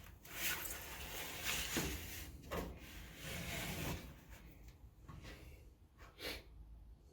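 Handling noises: uneven rustling and scraping, with a couple of short knocks, one a little after two and a half seconds and another about six seconds in.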